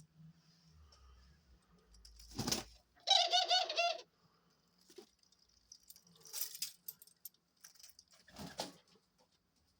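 A pet dove cooing once, a rapid pulsing coo lasting about a second, about three seconds in. Short rustling scuffles come before and after it, from birds moving about.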